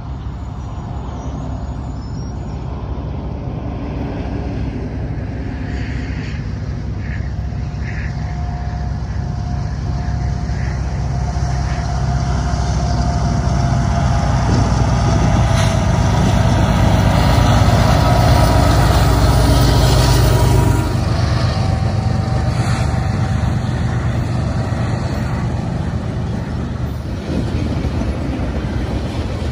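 Kansas City Southern diesel locomotives approaching at the head of a freight train, their engines' rumble growing steadily louder. The sound drops suddenly about two-thirds through as the lead units pass. After that come the lower rumble and rattle of loaded flatcars rolling by.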